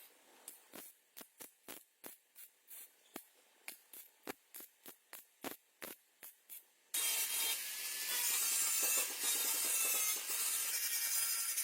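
Short rubbing strokes, about two or three a second, then from about seven seconds in a loud, steady hiss of compressed air from a body-shop air tool such as a spray gun.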